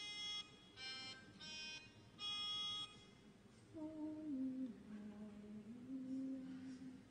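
Four short, steady high notes given one after another, then low voices humming a few held notes that step down and then back up: singers finding and humming their pitches.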